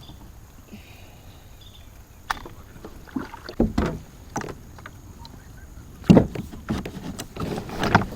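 Kayak being paddled and handled: irregular knocks and clunks of paddle and gear against the hull, spaced a second or two apart.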